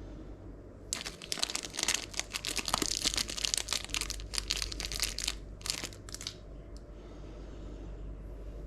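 Plastic packaging crinkling and rustling as a PC component is unwrapped by hand, a dense run of rapid crackles from about a second in that stops after about five seconds, over a steady low hum.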